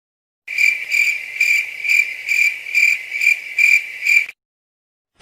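Crickets chirping sound effect: about nine high-pitched chirps, roughly two a second, that stop abruptly.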